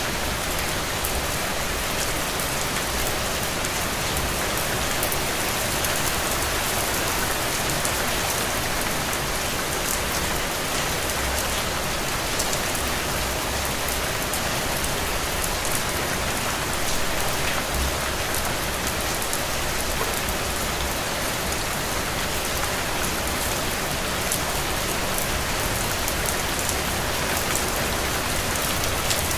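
Heavy, steady rain falling on open ground, a dense even hiss with the ticks of individual drops and no thunder.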